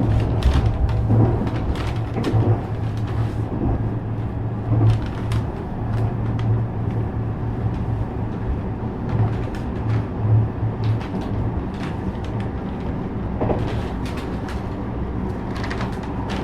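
JR West 321 series electric train running along the line: a steady low drone of traction motors and wheels on rail, with frequent sharp clicks and knocks from the track.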